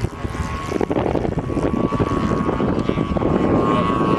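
Electric RC model airplane's motor and propeller whining at a steady pitch, over gusty wind buffeting the microphone.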